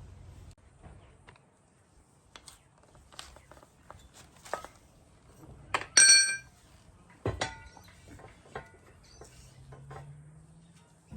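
Scattered knocks and clinks of metal. The loudest is a ringing metal clank about six seconds in, followed by another ringing knock a second later.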